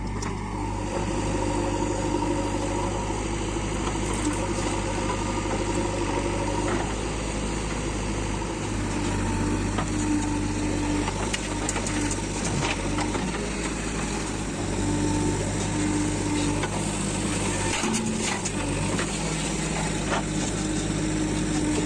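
Diesel engines running steadily while a JCB 3DX backhoe loader loads soil into a Swaraj 355 FE tractor, with a few scattered clicks and knocks.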